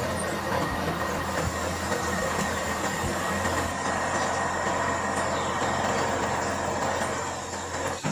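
Steady mechanical running noise with a low hum, cutting off abruptly near the end.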